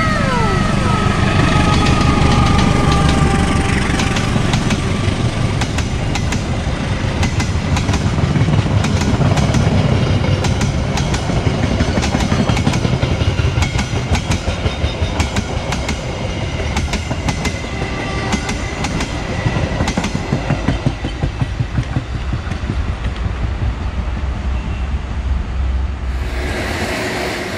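A locomotive horn sounds as a passenger train approaches. Then the train's carriages pass close by with a heavy rumble, their wheels clacking over the rail joints in a steady rhythm. The sound cuts off abruptly near the end.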